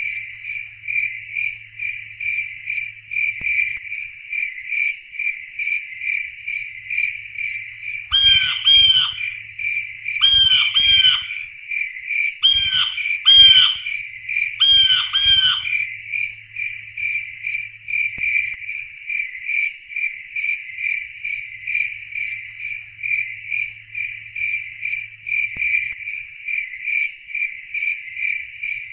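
Crickets chirping in a steady, even pulse, with a frog croaking in four quick pairs of calls around the middle.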